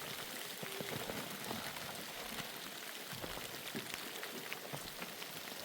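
Steady heavy rain falling, a constant hiss with many separate drop ticks close by.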